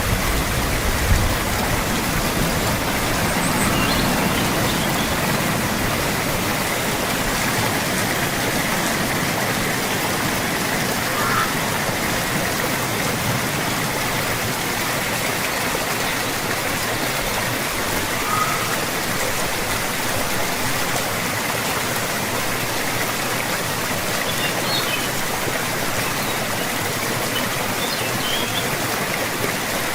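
Steady rain falling, a dense even hiss with no change in strength. A low rumble of thunder dies away about a second in.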